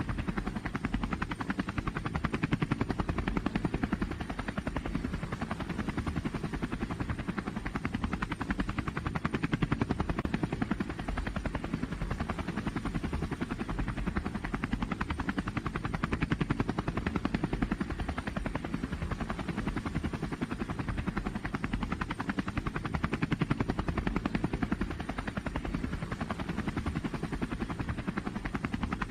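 Engine of a pulling truck or tractor running hard at high revs, a loud rapid firing that swells and eases every several seconds without stopping.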